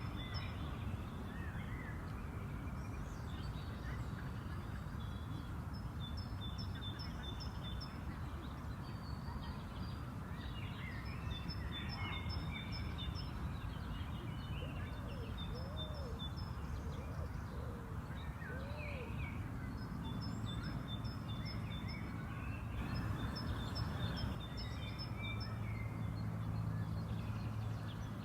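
Songbirds singing in a spring park, with rapid repeated high chirping phrases and scattered shorter calls, over a steady low background rumble.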